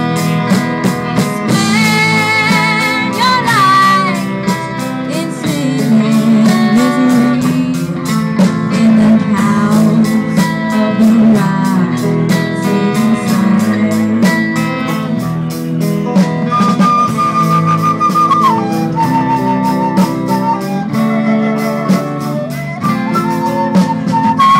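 Live blues-rock band playing with electric guitar, bass, drums and flute, the drums keeping a steady beat under sustained melody lines.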